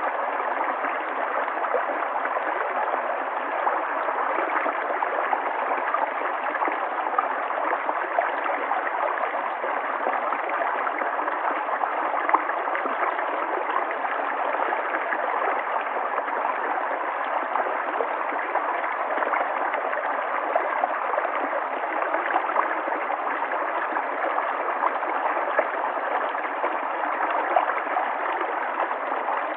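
River water flowing steadily over rocks, an even rushing with fine gurgles and splashes that does not let up.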